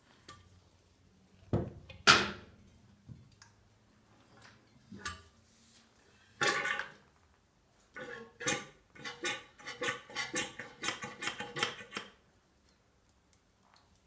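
Metal clanks and clinks of motorcycle front-fork parts being handled during disassembly: a couple of sharp knocks early, then a quick run of rattling metallic clinks over about four seconds near the end.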